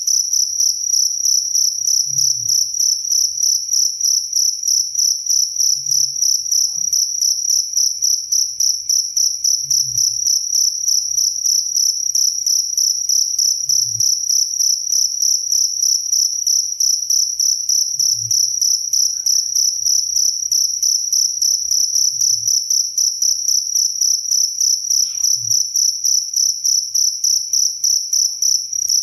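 Cricket chirping without pause: a loud, high, clear tone in a fast, even run of pulses.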